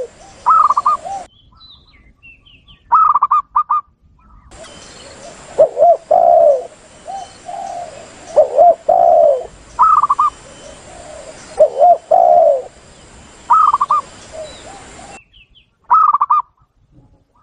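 Spotted doves (tekukur) and zebra doves (perkutut) calling in turn: phrases of low, rounded coos alternate with short bursts of quicker, higher coo notes, repeated as a bird-lure recording. A background hiss starts and stops abruptly between the phrases.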